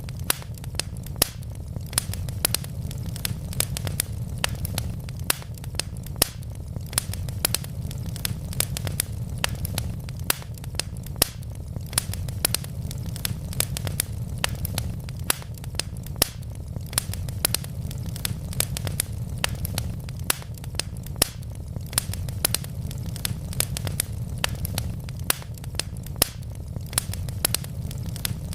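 Wood fire of burning logs crackling: a steady low rumble of flame under many irregular sharp snaps and pops, several a second, with a few louder pops.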